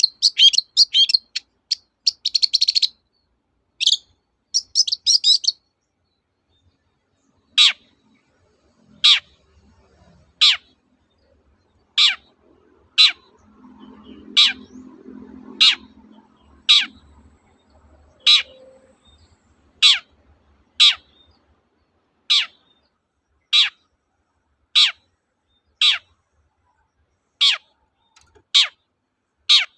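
Long-tailed shrike (cendet) singing: a few seconds of fast scratchy chattering, then a single sharp call sweeping downward in pitch, repeated over and over about once every second and a half.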